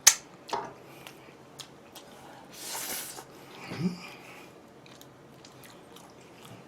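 Close-up eating sounds of biting into and chewing wood-fired roast chicken, with scattered small clicks of handling. A sharp click at the very start is the loudest sound, and there is a short rustle about three seconds in.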